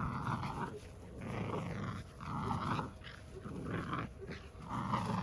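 American Bandog puppies growling while tugging and biting on a rag, in short growls that come about once a second.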